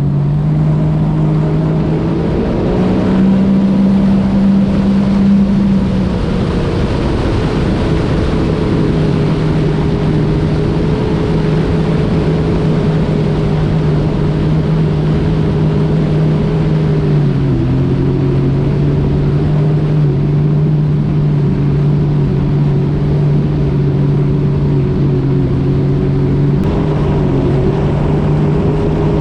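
Supercharged Sea-Doo RXP-X 300 personal watercraft engine running hard through an aftermarket Riva Racing exhaust. The engine note climbs a couple of seconds in, then holds steady at speed, with a brief dip about halfway through.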